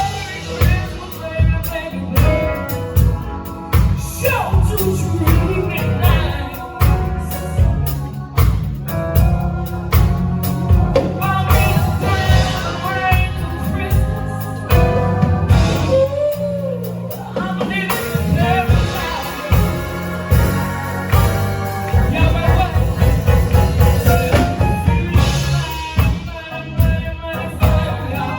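Live band music with drums and bass keeping a steady beat, and a woman singing over it.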